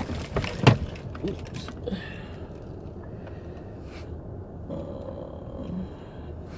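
Steady low rumble of a car heard from inside the cabin, with a few sharp knocks in the first second.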